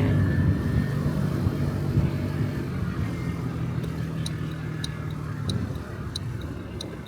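Honda Dio Cesta AF68's 50cc four-stroke scooter engine running and slowly dying away as the ride eases off toward a stop. From about four seconds in there is a light, regular ticking, two to three ticks a second.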